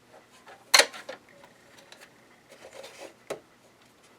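Handling noises from taking apart a sewing machine: a sharp knock about three-quarters of a second in, soft rubbing and scraping, and another click a little after three seconds, as a screwdriver works the screws of the plastic back cover.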